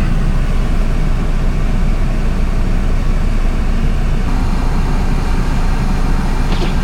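A car idling with its heater blower running on max to defrost a frozen windshield, a steady even drone with no change.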